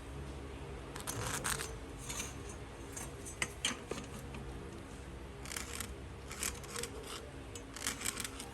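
Short, irregular scraping and scratching strokes of hand work on wood, over a steady low hum.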